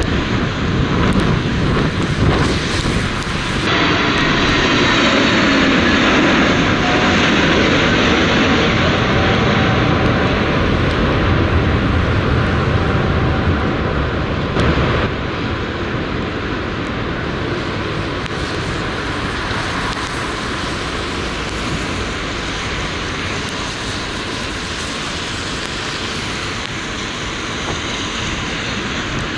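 Jet airliner passing close on its landing approach: a loud engine rush that swells about four seconds in, with a falling pitch as it goes by, then slowly fades away. Gusty wind rumbles on the microphone underneath.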